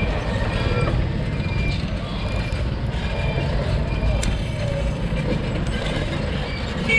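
Steady low rumble of wind and road noise from riding a bike along a road, with faint passing traffic.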